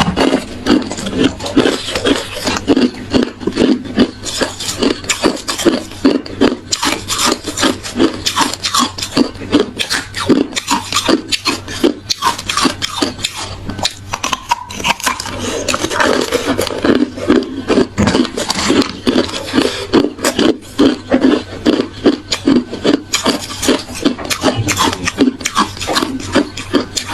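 Hard, reshaped ice being chewed with the mouth, a rapid, continuous run of crunches.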